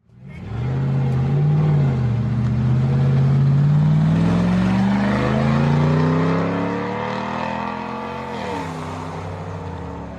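Light truck engine running under acceleration: it fades in quickly, then its pitch climbs steadily for several seconds. About eight seconds in the pitch drops sharply and the engine runs on steadily at lower revs, a little quieter.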